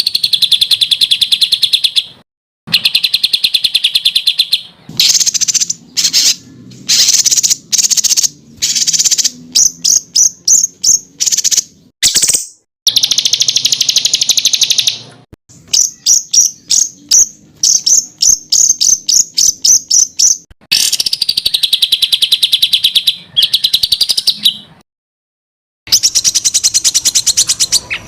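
Songbirds singing loud, rapid high-pitched trills and strings of sharp repeated notes, about four or five a second, the 'tembakan' phrases used to train competition birds. The song comes in edited stretches of a few seconds, each cut off abruptly by a moment of dead silence.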